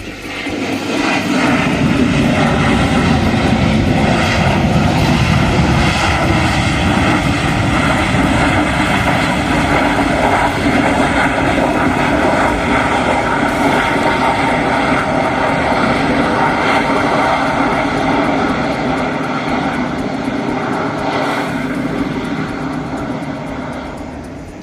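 Dassault Falcon 7X business jet landing, its three turbofan engines giving a loud jet roar with a steady whine. The sound builds over the first couple of seconds, holds, and fades away over the last few seconds.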